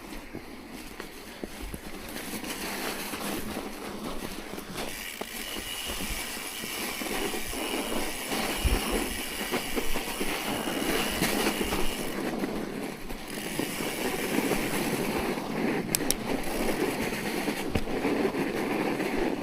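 Steady noise of riding through snow: tyres rolling over the snow, growing gradually louder, with a few light knocks along the way.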